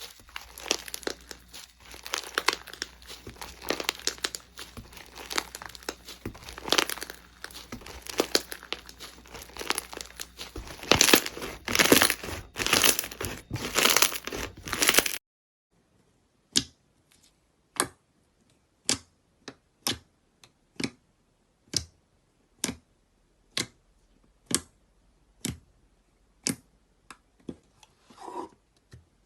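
Crunchy slime being squeezed and kneaded, a dense run of crackling, crinkling pops, loudest a little before the halfway point. It stops abruptly about halfway, and single sharp clicks follow, roughly one a second.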